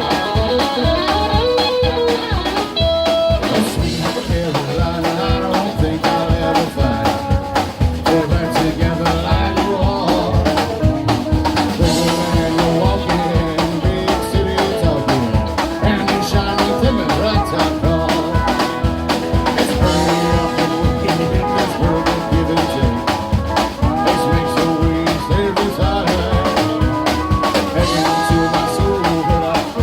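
Live band playing a blues-tinged song, with guitar over a drum kit at a steady beat.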